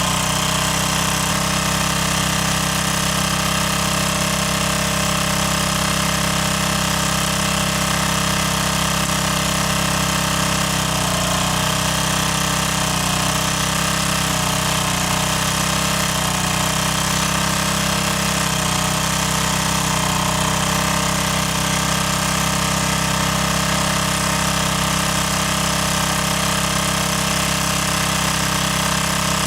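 A motor running steadily, a continuous mechanical drone that holds the same pitch and loudness throughout.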